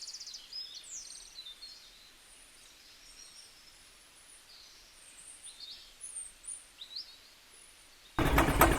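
Small birds chirping with short, high calls, faint against a low background hiss. Near the end, a loud engine-like running sound cuts in suddenly, beating fast and evenly.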